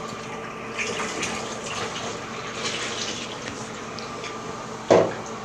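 Water running steadily into a bathtub, with one short, loud thump near the end.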